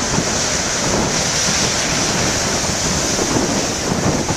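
Large storm waves breaking on the shore with strong wind blowing across the microphone: a steady, loud rush of surf and wind.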